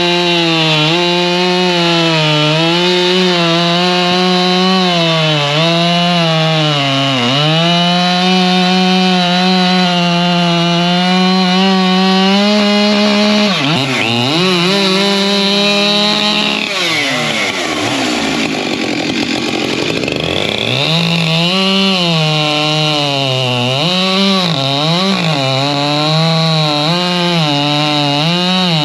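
Two-stroke chainsaw running at full throttle through wood, its engine pitch dipping and recovering again and again as it loads down in the cut. A little past the middle the revs fall away for a few seconds, then climb back up and it cuts again.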